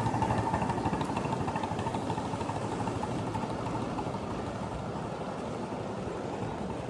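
A 7½-inch gauge ride-on model train running along the track, a steady, fast-pulsing mechanical sound.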